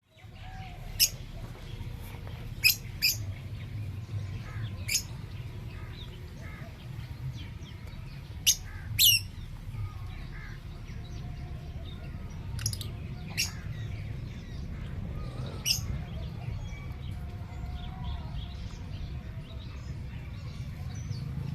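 Parrots giving short, shrill squawks, about nine of them at irregular intervals, over a steady low background rumble.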